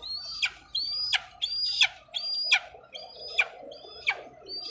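Young eagle calling repeatedly while being hand-fed, about seven calls in a row. Each call is a short high whistle that drops sharply in pitch.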